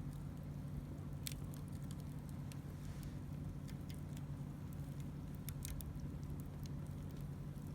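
Wood fire crackling, with sparse, irregular sharp pops and snaps over a steady low hum.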